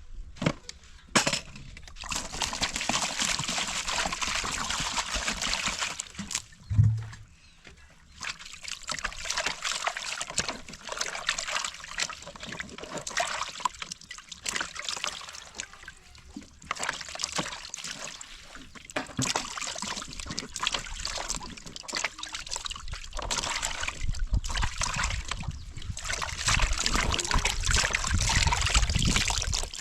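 Water sloshing and splashing in stretches of a few seconds with short pauses between, and a single dull thump about seven seconds in.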